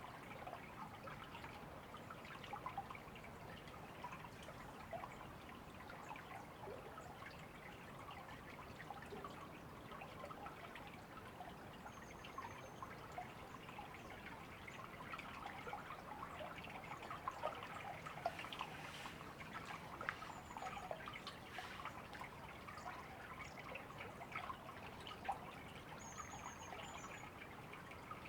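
Shallow river water babbling and trickling steadily over stones. Faint, short, high bird chirps come now and then: about a second in, around twelve and twenty seconds in, and twice near the end.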